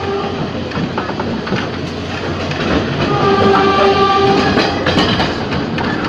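Ex-JR 203 series electric multiple unit running, with the clatter of wheels over the rails. A steady whine from the chopper traction equipment fades out just after the start and returns about three seconds in, over scattered clicks and rumble.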